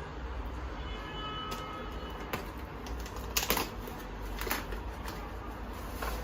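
A few light clicks and knocks from household items being handled, with a short faint ringing tone about a second in, over a steady low hum.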